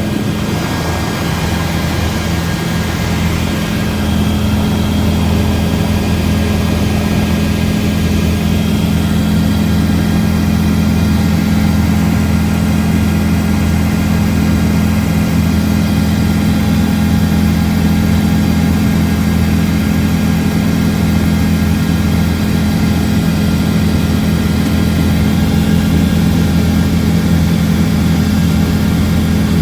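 Helicopter in flight, heard from inside the cabin: a loud, steady drone of rotor and engine with low humming tones.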